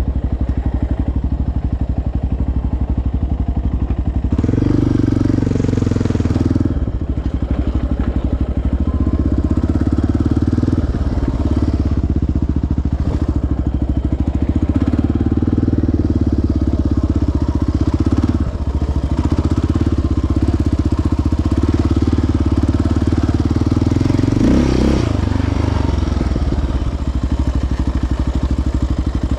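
Sport quad's single-cylinder four-stroke engine running steadily on the trail. The engine note changes briefly about four and a half seconds in and again near twenty-five seconds, as the throttle shifts.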